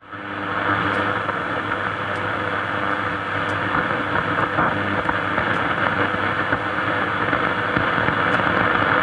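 Grundig Satellit 3400 Pro world receiver on its SW1 shortwave band, giving steady static with a faint hum and no station tuned in. The sound drops out for a moment right at the start as the band is switched.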